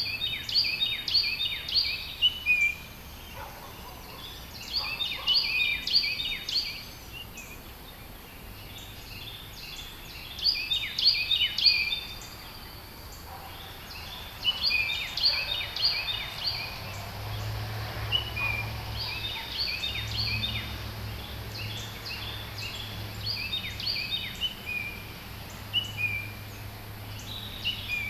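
A songbird singing, repeating a short phrase of quick, high notes every four or five seconds, with a low hum coming in about two-thirds of the way through.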